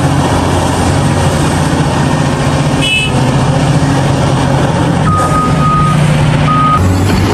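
Heavy diesel excavator and truck engines running steadily under work. There is a brief high tone about three seconds in, and a few electronic beeps in the second half, two longer and one short.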